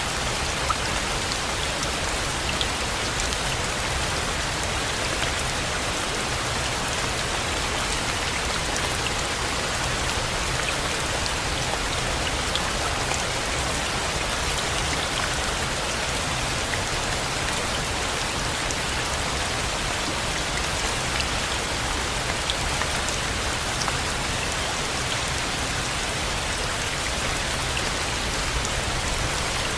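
Steady rain falling, an even hiss with scattered small drop ticks, unchanging in level throughout.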